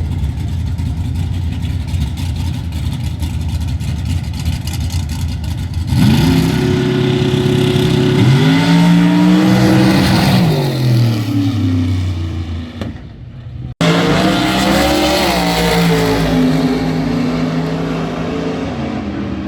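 Drag racing car engine rumbling low, then about six seconds in going sharply louder as it launches, the revs climbing and falling through the gears as it pulls away and fades. After a sudden cut near fourteen seconds in, another loud engine run follows with its pitch wavering.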